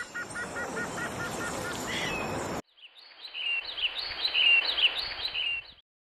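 Birds chirping: first a run of short, evenly repeated calls, about four a second, over a steady hiss; then, after a sudden cut, a busier burst of chirps that stops shortly before the end.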